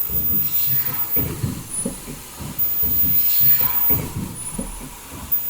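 Automatic foldable N95 mask production line running, with pneumatic hissing and repeated mechanical knocks in an uneven working cycle. Short high-pitched tones come and go.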